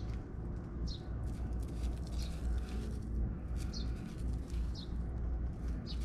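A small bird chirping: five short, high, falling chirps about a second apart, over a steady low rumble.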